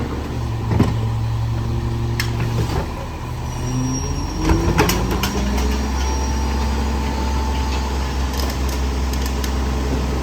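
Garbage truck engine idling, then revving up about four seconds in and holding a higher, steady note, with a faint thin whine over it. A few sharp knocks and bangs of trash and metal come through, the loudest around the rev-up.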